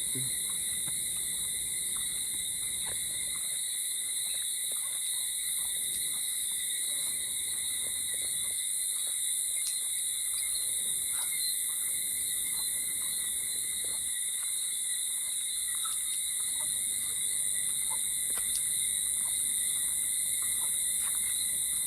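Night chorus of insects and frogs: a steady, continuous shrill drone in several high pitch bands that never lets up, with faint scattered ticks.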